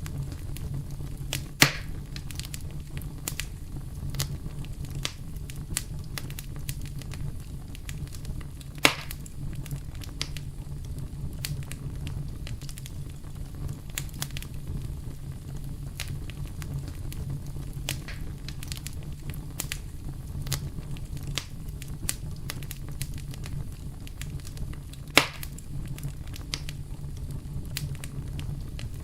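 Campfire burning steadily, with a low rumble under frequent small crackles and three sharp, louder pops spread through the stretch.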